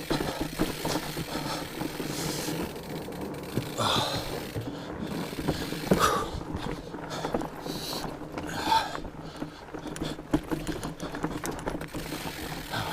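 Fat bike riding on a dirt trail: the wide tires rolling over the ground with a steady rumble, with scattered clicks and knocks from the bike, and the rider's heavy breathing.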